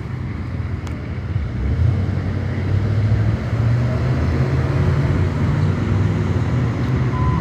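A vehicle's engine running with a steady low hum over street noise, getting louder about two seconds in. A short electronic beep near the end.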